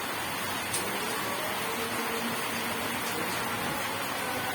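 Steady rain, an even hiss, with a brief tick about three-quarters of a second in.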